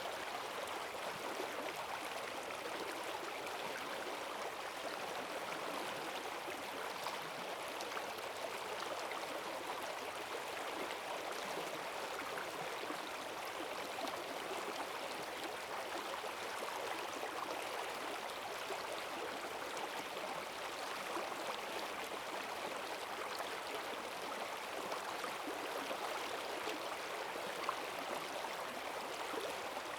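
Forest stream swollen by heavy rain, its strong current rushing steadily over rocks.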